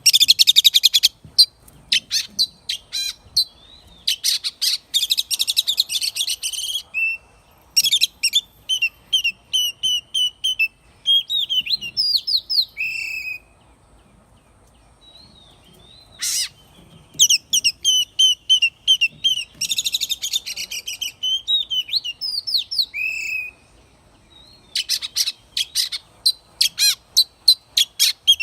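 Oriental magpie-robin singing in several bouts: fast rattling trills mixed with runs of repeated clear whistled notes and slurred notes that swoop up and down, with two short pauses between bouts.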